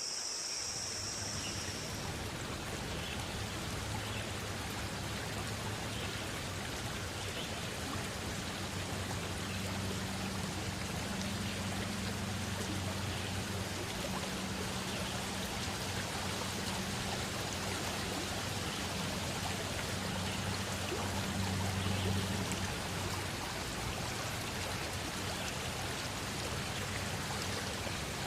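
River stream flowing steadily, an even rushing of water with a low rumble under it. A high insect trill is heard at the start and stops about two seconds in.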